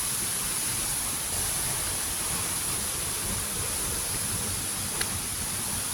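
Steady rush of a waterfall, an even wash of noise, with a faint click about five seconds in.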